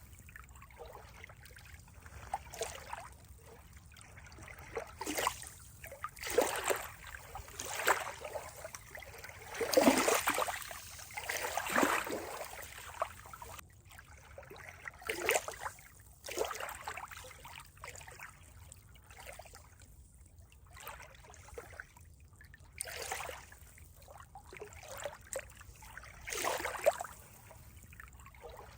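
Water trickling and splashing in irregular little bursts, loudest about a third of the way through.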